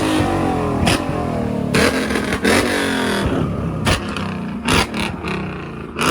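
A car engine revving hard, its pitch rising and falling between revs. About eight loud, sharp bangs are scattered through it.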